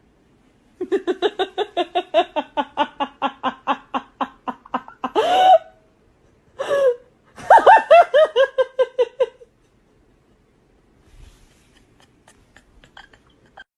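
A person laughing hard: a long run of quick rhythmic laughs, a couple of short higher whoops, then a second falling run of laughs that stops about nine seconds in.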